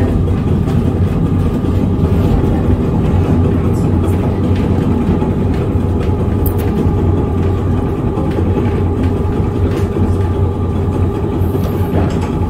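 Vintage electric tram running along its rails, a steady low rumble from the motors and wheels heard on board, with a few faint clicks.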